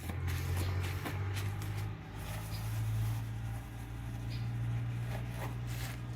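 Hand trowel scraping and smoothing wet clay plaster on an adobe wall: a run of soft scrapes and light clicks over a steady low hum.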